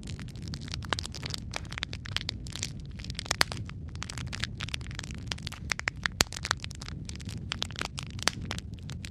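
Wood fire crackling and popping in a fireplace: irregular sharp snaps, several a second, over a steady low rumble of the burning.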